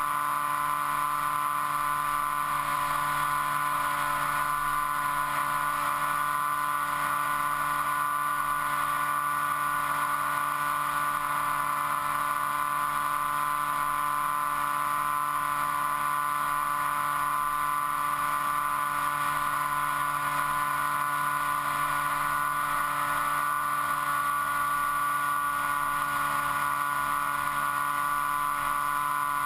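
Motor and propeller of an FPV model aircraft, heard through the onboard camera: a steady, even whine at constant speed over a rush of air.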